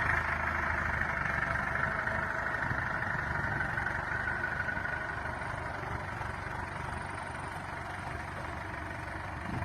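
A vehicle engine running steadily, with an even rumble and a faint steady hum.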